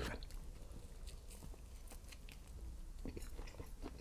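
A person chewing a mouthful of pan-fried vegan omelette: faint, soft mouth clicks and smacks, a little more frequent near the end.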